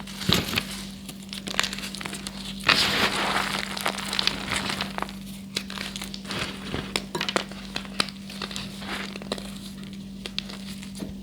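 Blocks of gym chalk being crushed and crumbled, a run of crisp crunches and crackles with a denser, louder crunch about three seconds in, over a steady low electrical hum.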